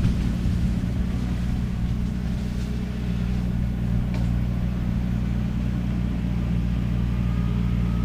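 Skid steer engine running steadily at an even speed, a low constant hum with no rise or fall in pitch.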